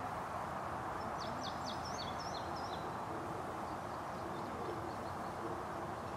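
A small bird singing a quick run of high, sharp chirps about a second in, with a fainter second run a few seconds later, over a steady outdoor background hiss.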